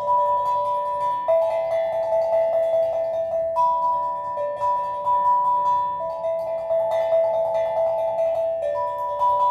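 Steel drum music: ringing metallic notes in a slow, gently changing melody, each note sustained and overlapping the next, over a stream of light quick strikes.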